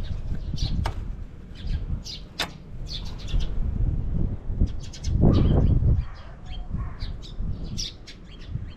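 Birds chirping, many short separate calls scattered throughout, over an uneven low rumble that swells loudest a little past halfway.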